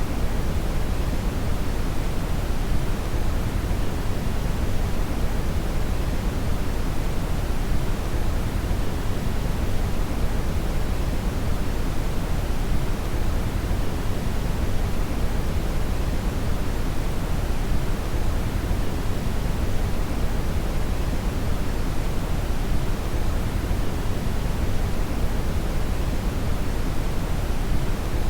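Steady brown (red) noise: a constant deep rushing hiss, strongest in the bass and fading toward the treble, with no changes.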